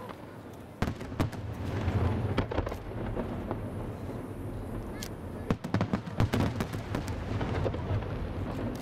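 Fireworks display: a steady low rumble of bursts with many sharp cracks and pops on top, busiest about a second in and again from about five and a half seconds on.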